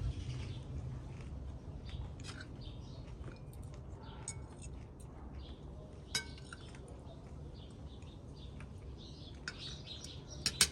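Cutlery clinking against dishes: a ringing clink about six seconds in and two sharp clinks near the end, with birds chirping now and then.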